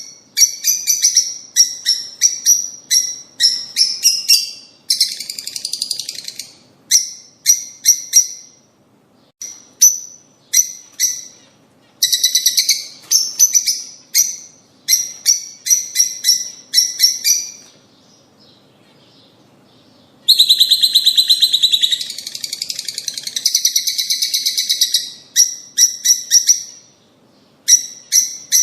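Lovebirds chirping in rapid trains of shrill, repeated notes with short gaps between them. A quiet pause comes a little past the middle, then a few seconds of dense, unbroken chattering.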